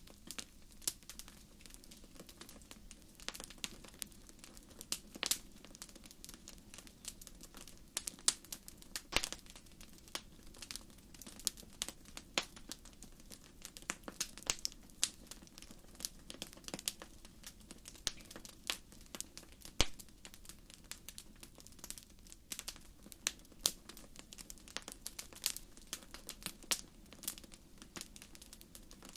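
Wood fire in a fireplace crackling, with irregular sharp pops and snaps over a low steady rush of burning.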